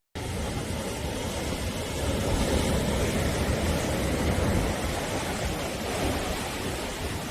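East Sea waves washing on the shore in a steady rush of surf, with a swell building about two seconds in and easing off after about five seconds. A split-second dropout to silence at the very start.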